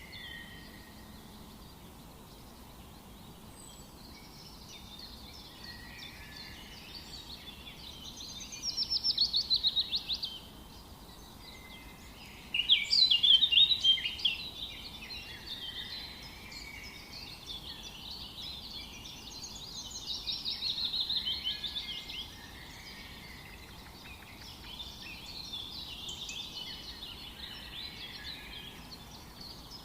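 Several songbirds singing at once, a busy chorus of chirps and trills. A few louder runs of fast repeated notes stand out: one about a third of the way in, the loudest burst just before the middle, and another about two-thirds through.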